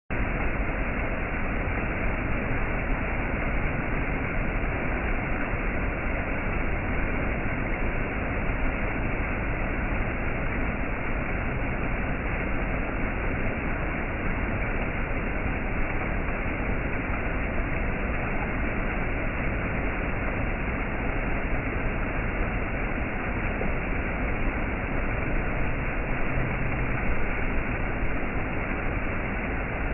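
Waterfall: a steady, even rush of falling water, deep and full, with no change in level.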